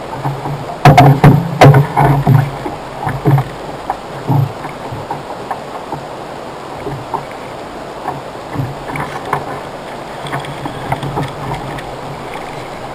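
Knocks and bumps on a kayak: a cluster of loud sharp ones about a second in, then scattered lighter ones over a steady low background.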